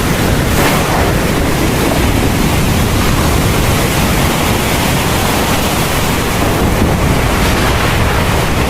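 Heavy rain pouring steadily in a thunderstorm, with a deep low rumble underneath that swells slightly near the end.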